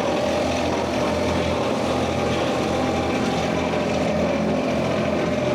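An engine running steadily, a constant low hum with a steady higher whine over it.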